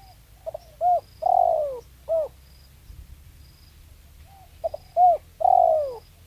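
Spotted dove (tekukur) cooing: two song phrases, each a couple of short notes, a long falling coo and a short closing note.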